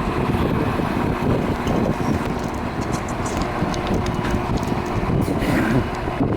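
Steady low rumble of a diesel train engine running.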